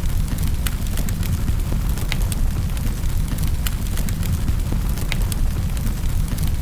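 Wood fire in a fireplace crackling: sharp snaps and pops several times a second over a steady low rumble.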